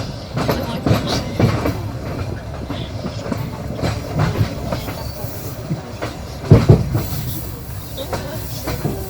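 Passenger train wheels clattering over rail joints, heard from aboard the train, over a steady rumble. A louder pair of knocks comes about six and a half seconds in.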